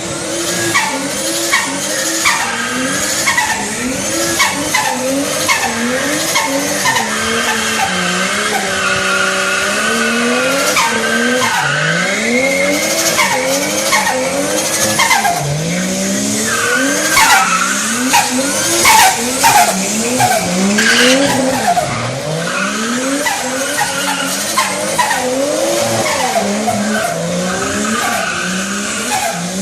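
Big-turbo Toyota Supra engines revving hard. The pitch climbs and drops again and again, with a short stretch of steady held revs about a third of the way in.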